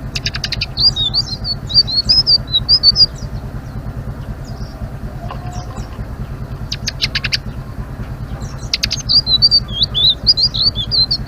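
Bluethroat (selendang biru) singing in rapid, high twittering phrases: one burst of song at the start and another about nine seconds in, with short runs of sharp clicking notes between them. A steady low hum runs underneath.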